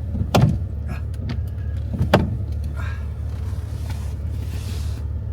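Vehicle engine running with a steady low rumble, with two sharp clicks or knocks about half a second and two seconds in.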